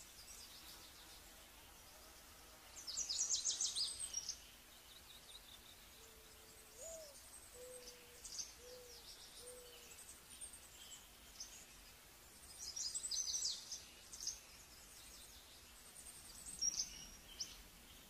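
Wild birds calling. There are two bursts of rapid, high-pitched trilling, about three seconds in and again about thirteen seconds in, with scattered high chirps between, and a few low, short notes in the middle.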